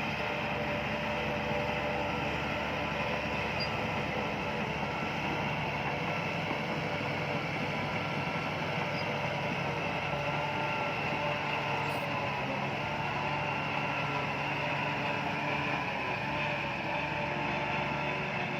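Bulldozer's diesel engine running steadily, with a constant mechanical rumble and rattle.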